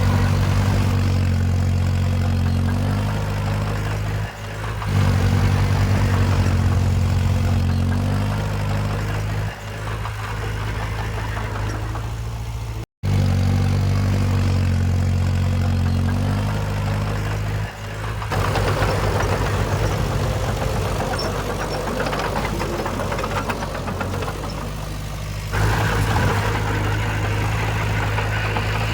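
Heavy earthmoving equipment's diesel engine running, its pitch and loudness shifting every few seconds as it works, with a brief break about halfway through.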